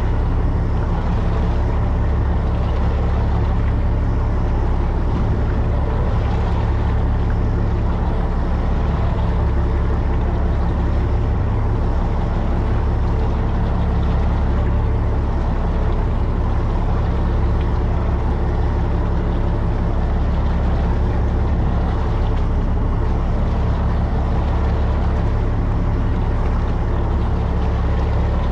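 Fishing boat's engine running steadily, a low, even drone with no change in speed.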